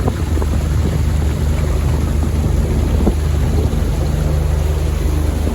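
Boat's outboard motor running steadily with a low hum, on its first run in seven years, with wind buffeting the microphone.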